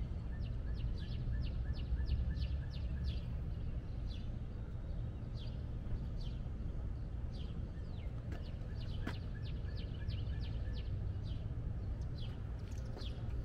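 A songbird singing quick runs of short falling chirps, two runs with a few scattered notes between, over a steady low background rumble. A single click about nine seconds in.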